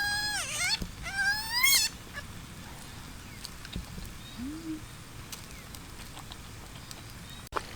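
A few high, wavering animal calls in the first two seconds, each bending in pitch, then a quieter background with one faint low call about halfway through.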